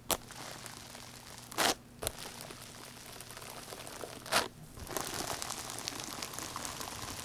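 Hands kneading and pressing slime: a crackling, crinkling squish, with two louder squelches about one and a half seconds and four and a half seconds in, and denser crackling from about five seconds on.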